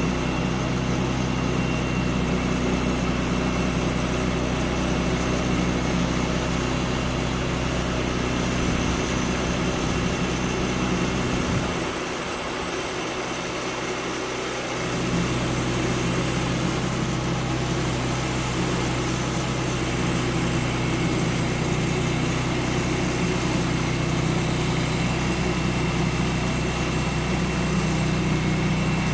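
Sawmill engine running steadily at a constant speed. Its low hum briefly drops away for about three seconds near the middle, then returns.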